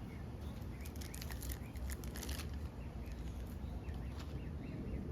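Rustling and crinkling of packaging as a die-cast model airliner is lifted out of its box, busiest about one to two and a half seconds in.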